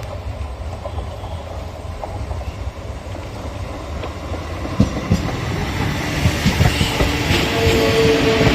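Local passenger train approaching and growing louder, its wheels clattering over the rail joints. A steady high tone joins near the end.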